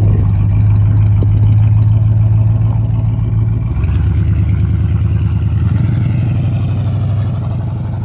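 Square-body Chevrolet pickup's engine running loud and steady as the truck pulls away; its note changes about four seconds in, and it grows a little quieter near the end.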